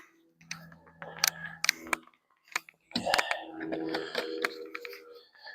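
A series of light clicks and taps, about ten scattered over a few seconds, with a faint low hum between them.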